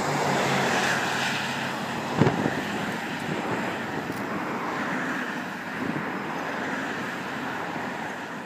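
Diesel-hauled passenger train running past and moving away, a steady rumble of engine and wheels that slowly fades. A brief thump about two seconds in.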